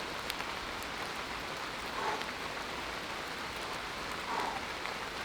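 Steady rain falling on the forest, an even hiss with scattered drop ticks.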